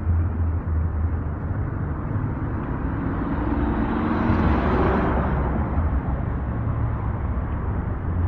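Strong wind buffeting the microphone with a steady low rumble, while a car passes by, swelling to its loudest about four to five seconds in and then fading.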